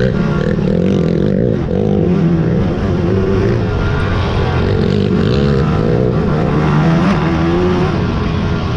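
Big-bore racing quad (ATV) engines running hard, their pitch rising and falling with the throttle.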